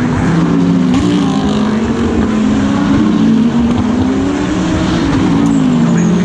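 GT3 race car engine heard from on board, running hard, its pitch rising and falling several times as the car accelerates and slows.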